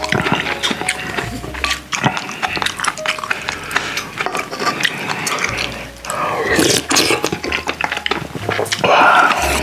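Close-miked chewing and lip smacking, many quick wet clicks, as a man eats spoonfuls of soft tofu stew (sundubu-jjigae) with rice, with a couple of louder noisy bursts from sipping or slurping.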